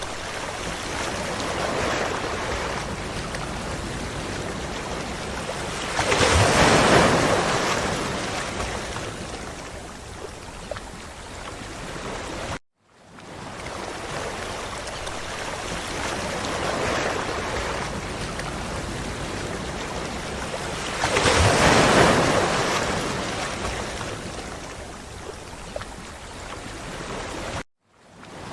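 Ocean surf washing onto a beach: a steady wash with a wave breaking loudly about six seconds in and again some fifteen seconds later, each sweeping up and then fading away. The sound cuts out briefly twice, where the recording loops.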